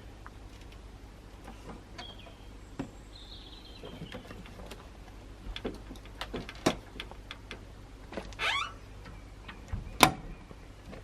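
Scattered clicks and knocks of something being handled, with a short rasping sweep about eight and a half seconds in and one sharp knock about ten seconds in; faint bird calls sound early on.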